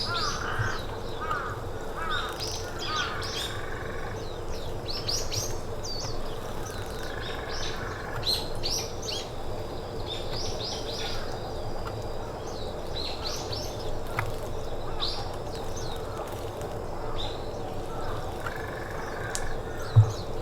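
Small forest birds chirping in short, repeated notes. Crows call at the start and again near the end, and a single low thump comes just before the end.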